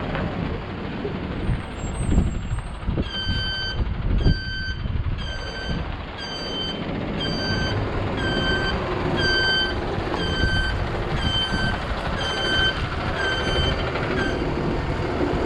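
Reverse backup alarm of a 2013 Ford F750 water truck beeping about twice a second for some ten seconds while the truck backs up, over the low running of its engine. The beeping starts a few seconds in and stops shortly before the end, after a couple of thumps early on.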